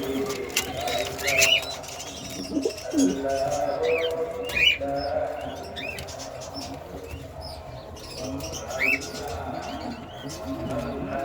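Domestic pigeons cooing repeatedly in a loft, with short high chirps from small cage birds scattered among the coos.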